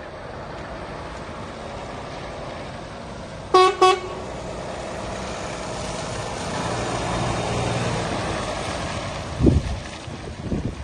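Truck horn sounded twice in two short toots about three and a half seconds in, over a diesel engine running steadily that grows louder for a few seconds in the middle. Two low thumps come near the end.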